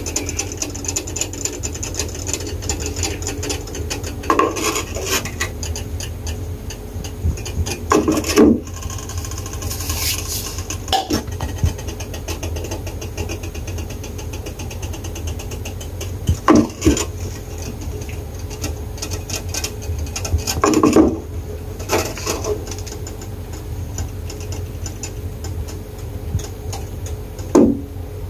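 Beaten egg with corned beef and cheese sizzling in a nonstick frying pan, a steady crackle over a low hum. A few brief louder knocks or scrapes stand out now and then.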